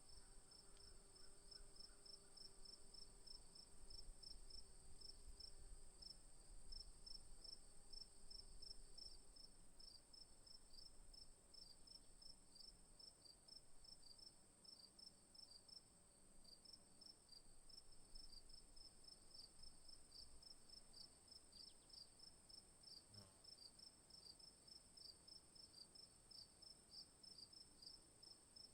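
Faint insect chorus: a steady high buzz with a rhythmic chirping repeating about three times a second.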